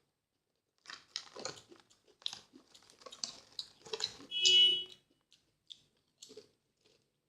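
Crunchy snack chips being chewed close to the microphone: a run of short crisp crunches, loudest about four and a half seconds in, thinning to a few small clicks near the end.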